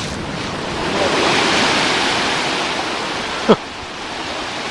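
A big ocean wave breaking and washing up the beach: a loud rush of surf that swells about a second in and slowly eases. A short, sharp sound with a falling pitch cuts in about three and a half seconds in.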